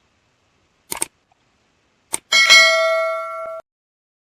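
Three short, sharp clicks, then a bell-like electronic chime of about a second that cuts off suddenly.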